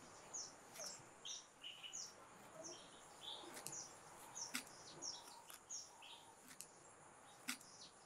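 Faint bird chirps, short falling notes repeated about twice a second, over quiet natural ambience with a few faint clicks.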